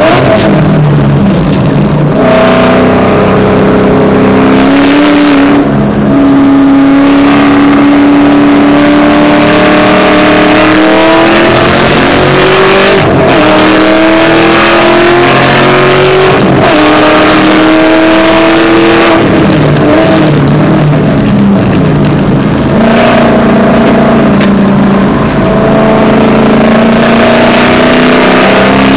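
Shelby GT500's supercharged V8, with a 2.6 supercharger pulley and long-tube headers, running hard, heard from inside the cabin. The engine note climbs steadily and then drops sharply again and again, with gear changes and lifts off the throttle between the climbs.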